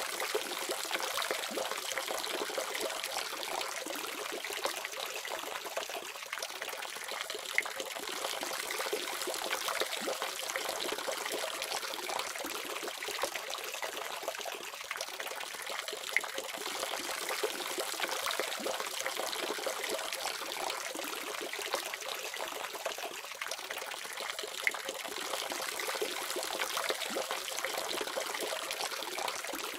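Water running steadily from a faucet, a continuous splashing trickle.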